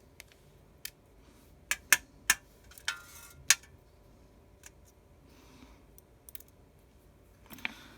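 Small sharp clicks and taps of a precision screwdriver and tiny screws against an iPhone 6s's frame as screws are taken out, about eight or nine irregular clicks.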